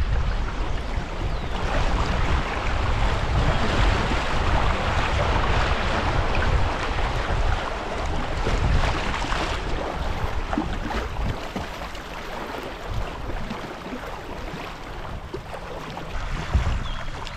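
River water rushing and splashing against a kayak, loudest in the first half and easing later, with wind buffeting the microphone throughout.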